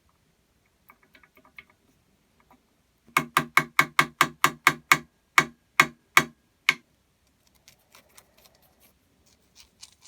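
A rapid run of about thirteen sharp knocks, roughly four a second, spreading out and stopping a few seconds in. Faint clicks come before and after.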